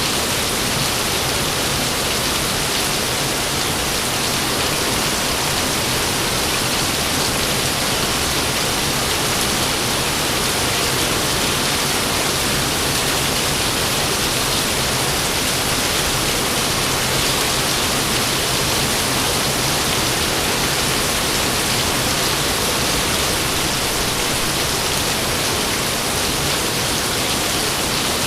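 Steady heavy rainfall, an even hiss with no thunder and no change in level.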